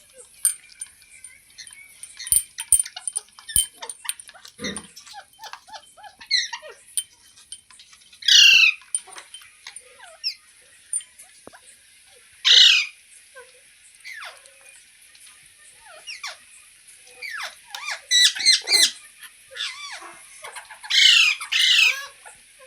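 Pet green ringneck parrot calling: four loud harsh screeches, each sliding down in pitch, with softer chirps, chatter and clicks in between.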